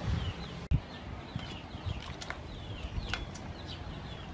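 Small birds chirping in short, falling calls, two or three a second, over a low steady background. One low thump about three-quarters of a second in.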